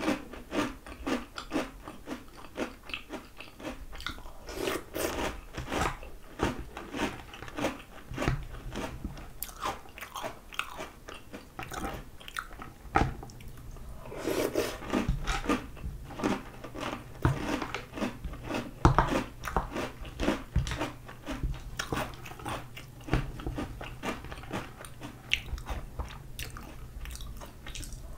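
Close-miked chewing of Oreo O's chocolate cereal rings in milk: a long run of quick, crisp crunches as the rings are bitten and ground.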